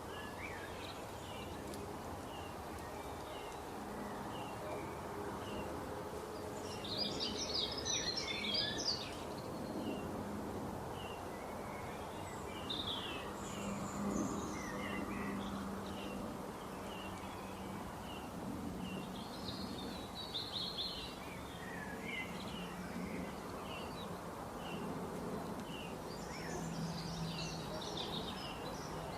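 Small birds chirping over and over, with several louder bursts of rapid twittering, over a steady background of noise and a low hum.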